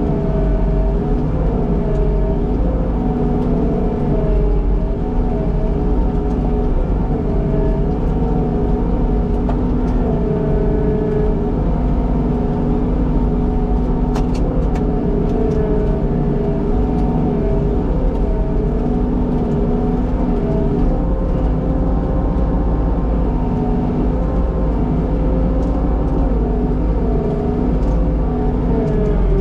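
Skid steer engine running steadily under work, its pitch wavering slightly up and down as the machine is operated, with a few sharp clicks about halfway through.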